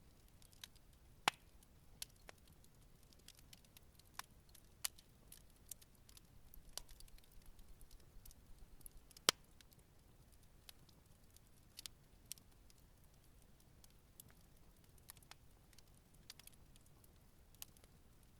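Wood fire crackling: scattered sharp pops and snaps, two of them louder, about a second in and a little past the middle, over a faint hiss.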